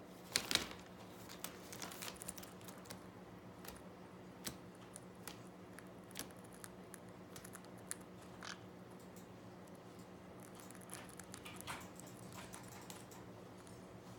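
Parrot picking at and crunching chips: scattered small crunches and beak or foot clicks, the loudest about half a second in, over a faint steady hum.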